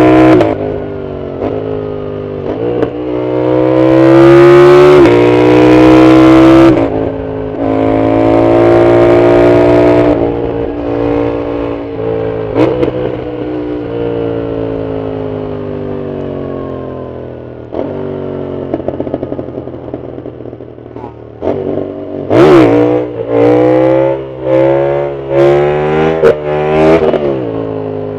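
Yamaha MT-07's CP2 parallel-twin engine through a full Arrow exhaust, pulling hard and rising in revs through several gear changes, then winding down on a long closed-throttle stretch with a few sharp cracks. Near the end it gives a quick string of short throttle blips.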